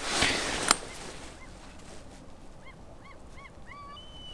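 A short rustling noise ending in a sharp click at the start. Then, from about two and a half seconds in, a run of short bird calls, each arching up and down in pitch, repeated several times a second.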